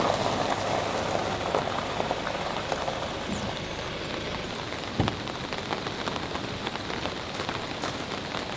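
Steady spring rain falling, with scattered drip taps and one sharper tap about five seconds in.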